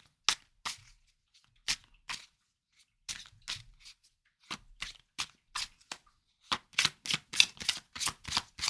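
Tarot cards being shuffled by hand: scattered sharp card snaps, turning into a quick run of snaps about six and a half seconds in.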